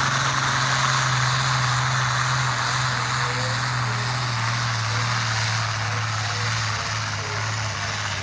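Farm tractor's diesel engine running steadily under load in a tractor pull, a constant drone with a broad hiss over it, easing off slightly toward the end.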